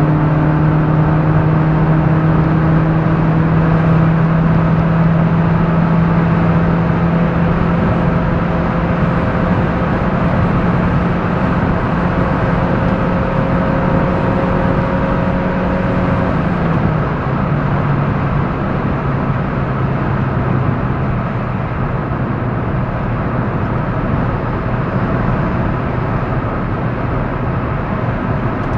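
Honda D15Z6 four-cylinder engine heard from inside the cabin, running steadily at highway speed with its pitch slowly rising as the car gathers speed. A little past halfway the engine note drops as the revs fall and the car slows. Road and wind noise run underneath throughout.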